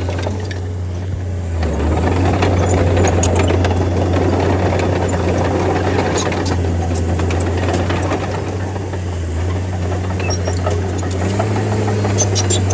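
D30 bulldozer's diesel engine running steadily under work, its pitch dipping briefly twice and rising again near the end, with scattered sharp clicks and metallic rattles.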